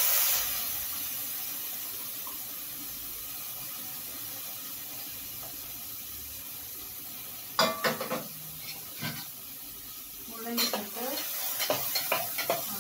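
Chopped radish dropped into hot oil in a metal pot, bursting into a loud sizzle that settles into a steady frying hiss. From about seven seconds in, and more in the last few seconds, a spoon clinks and scrapes against the pot as the radish is stirred.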